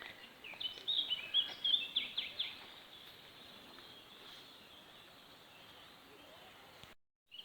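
A songbird sings one quick phrase of high, falling notes, lasting about two seconds, then only faint background hiss remains.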